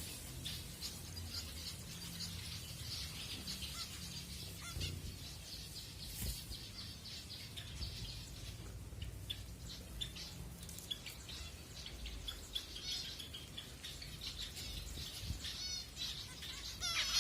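Zebra finches chirping, a steady stream of short, high calls that grows busier and louder near the end, over a low steady hum.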